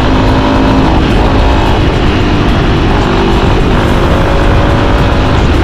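Motorcycle engine running under way, its pitch rising and falling with the throttle, over a steady rush of wind noise.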